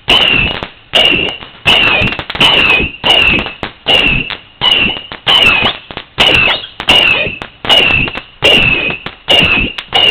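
A 100-shot firework battery firing shot after shot at an even pace, about one every 0.7 seconds. Each shot is a sharp bang carrying a short high whistle that wavers and dips, then fades.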